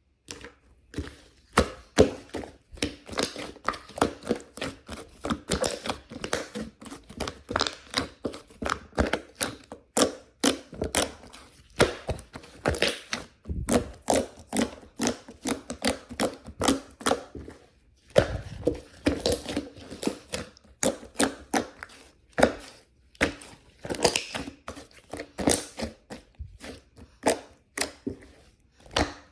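Mechanical keyboard being typed on: fast, irregular keystrokes with a few short pauses.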